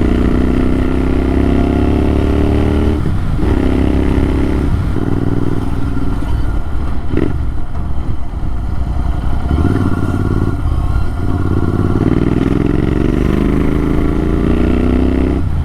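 Motorcycle with an AEW TE102 aftermarket exhaust, dB killer removed, running loud and raw under acceleration. The engine note climbs in pitch, breaks off briefly at each gear change, then climbs again, several times over.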